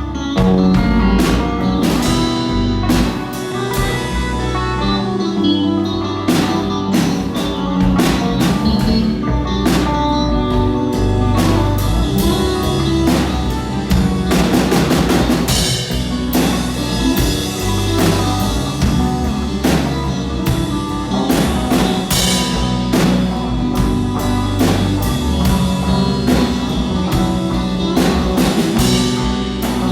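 A rock band playing a song live: a drum kit keeping a steady beat under electric guitar, with bass notes changing about every second.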